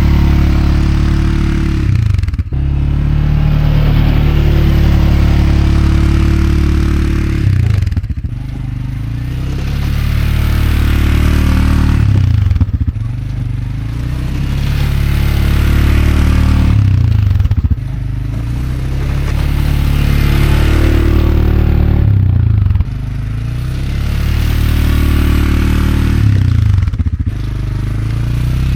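CFMoto CForce 520L ATV's single-cylinder engine running under load while plowing snow. The revs drop briefly and climb again about every five seconds.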